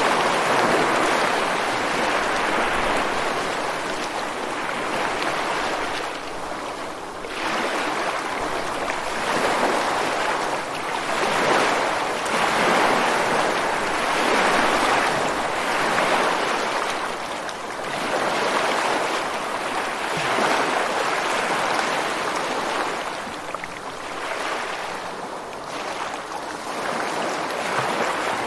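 Ocean waves breaking and washing against rocks on a beach, a continuous rush of surf that swells and eases every few seconds.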